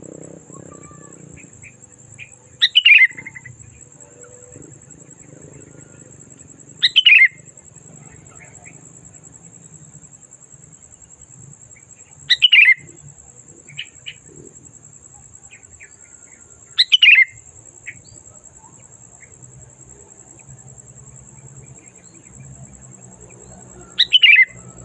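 Sooty-headed bulbul (kutilang) singing loud, clear phrases, one short burst every four to five seconds, five in all, with faint chirps between.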